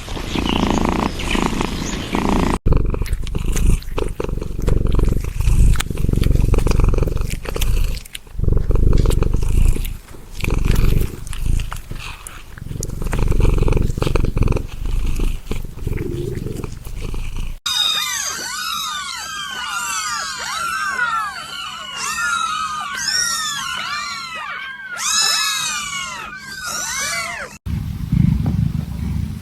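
Animal sounds from a run of short clips: a long stretch of low, pulsing purring or growling, then about ten seconds of many quick, overlapping high chirps, then low sound again near the end.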